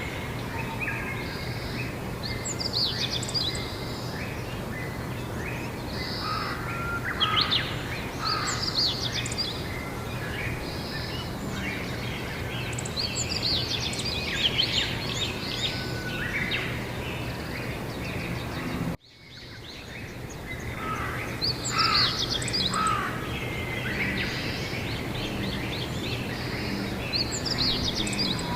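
Several songbirds singing in repeated short phrases every few seconds over a steady low background noise. About two-thirds of the way through the sound cuts out abruptly and fades back in.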